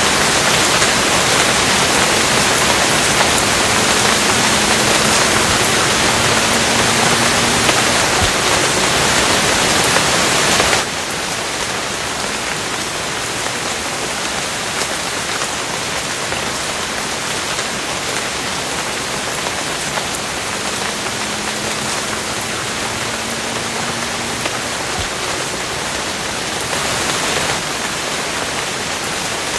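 Steady rain falling, an even hiss with no thunder. About a third of the way in it suddenly becomes quieter and duller, as if switching to a softer stretch of rain.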